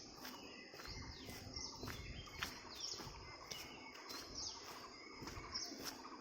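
Footsteps of a walker, a step about every half second or so, with several short bird chirps and calls over them.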